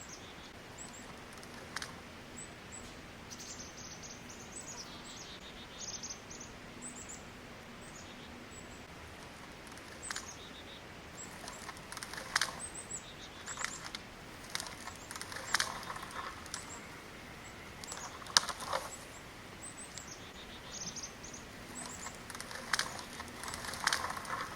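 Woodland ambience: small birds chirping, with scattered short bursts of crackling and rustling in the brush several times.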